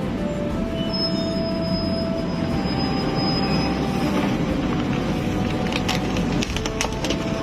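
Heavy truck brakes squealing in high, steady tones over a dense low rumble of engine and road, with a quick run of clicks or rattles near the end.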